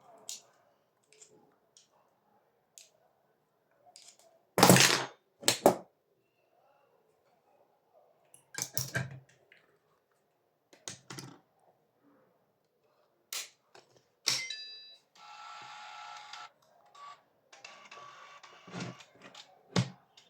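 Sharp clicks and knocks of a fibre-optic fusion splicer being handled and worked, about a dozen, uneven and spread out. About three-quarters through comes a short, steady buzzing whir, followed by a noisier rattling stretch and a few more clicks near the end.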